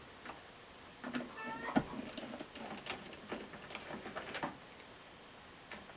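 Hand screwdriver backing screws out of a washing machine's metal front panel: a run of small irregular clicks and ticks, with a brief squeak about a second and a half in.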